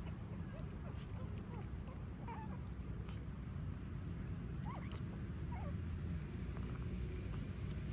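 Newborn puppies squeaking and whimpering faintly: several short, high, wavering squeaks scattered through, over a steady low rumble.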